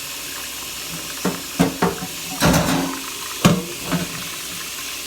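Kitchen faucet running into the sink while refrigerator racks are rinsed, with a series of knocks and clanks as the racks are handled, clustered between about one and four seconds in.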